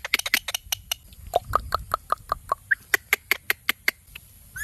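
Indian ringneck parrot making a rapid, irregular run of short sharp clicks and chirps, about five or six a second, ending with the start of a rising whistle.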